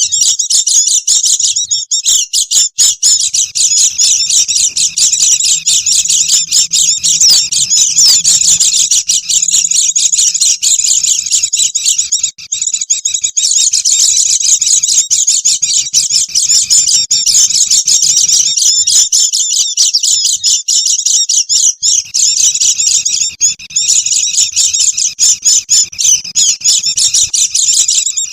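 White-eyes (pleci) chattering excitedly: a dense, unbroken stream of rapid, high-pitched twittering calls. This is the busy 'ribut' white-eye chatter used as a lure sound to draw in wild birds.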